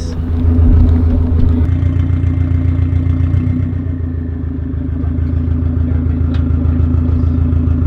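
A car engine running steadily at an even speed, a low, constant drone that gets louder about half a second in.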